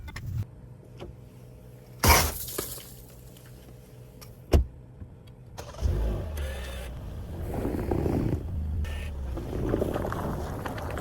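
Car with its engine running at a low steady hum, a loud thump about two seconds in and a sharp click a couple of seconds later, then a rumbling rise in engine and road noise from about six seconds as the car moves off.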